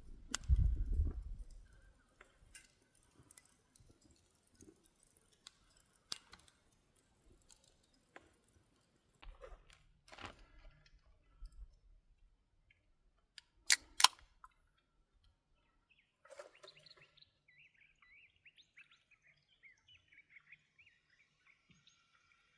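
Quiet handling noises and scattered small clicks, with two sharp clicks close together about fourteen seconds in. A bird then chirps in quick repeated calls through the last few seconds.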